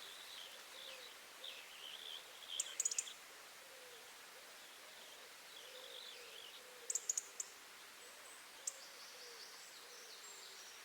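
Birds calling outdoors: a low repeated call underneath higher twittering song, with a few short clusters of sharp clicks.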